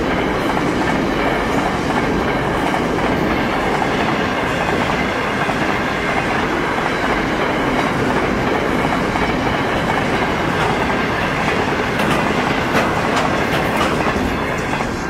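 Freight train of open wagons rolling past at speed, a steady rumble of wheels on the track with several sharper clacks near the end. Faint steady high tones run through it, fitting the level crossing's warning bells ringing.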